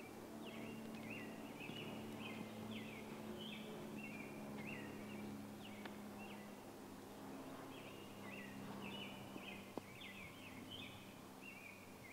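A songbird singing in runs of short, quick chirping notes, over a steady low background hum.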